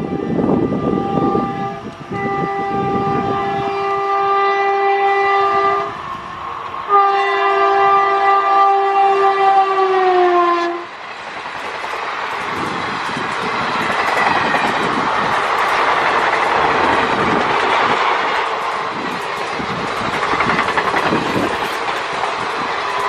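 Indian Railways electric locomotive sounding its horn in two long blasts, the second dropping in pitch at its end as the locomotive passes. Then a long passenger train's coaches rush past, wheels clattering over the rail joints.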